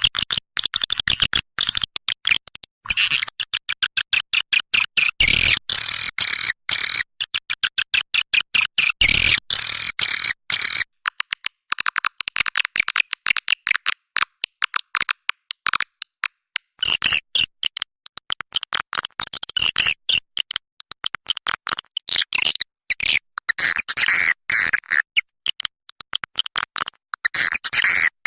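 Recorded swiftlet lure call: a dense, unbroken run of short high chirps and clicking twitters, many per second, with the low end cut away.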